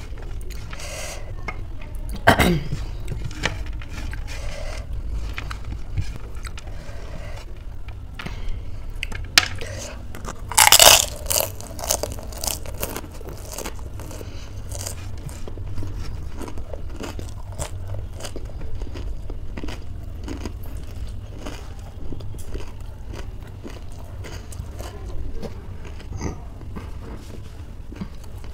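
Close-up chewing and crunching of a crisp phuchka (panipuri) shell in the mouth, with many short crackles and louder crunches about two seconds in and about eleven seconds in, over a steady low hum.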